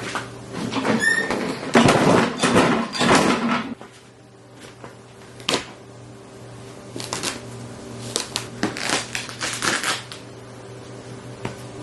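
Rapid clattering knocks and clicks of hard objects, a dense run in the first few seconds and a looser one later, over a steady low hum.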